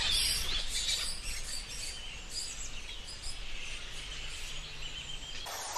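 Birds chirping in short, scattered calls over a steady low rumble of background ambience, with a denser burst of chirping at the very start.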